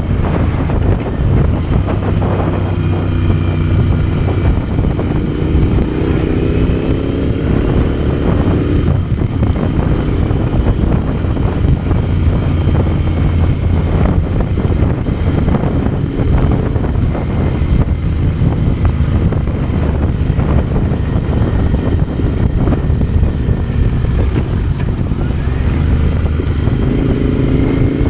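Motorcycle engine pulling under way, with wind noise on the microphone. The revs climb for several seconds, drop at a gear change about nine seconds in, and climb again near the end.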